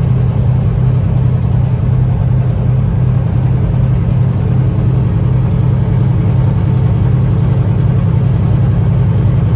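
Semi-truck's diesel engine and road noise heard from inside the cab while cruising on the highway: a steady, even low drone with no change in pitch.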